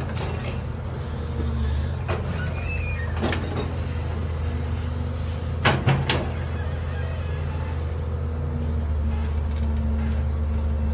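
Heavy diesel machine engine running steadily, with a few sharp metallic clanks, the loudest pair about six seconds in.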